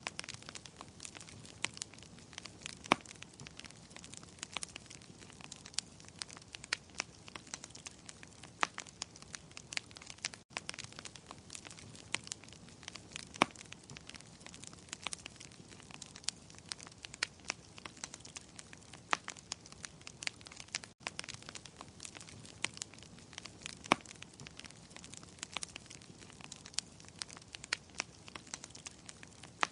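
Wood fire crackling in a fireplace: a steady hiss with many sharp, irregular pops and snaps. The sound cuts out for an instant twice, about ten seconds apart.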